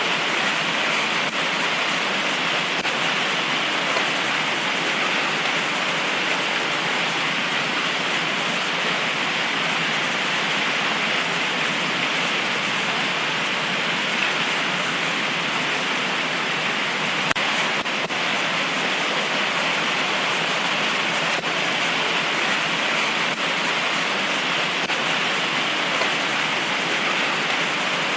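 Heavy tropical rain pouring steadily, an even hiss with no thunder.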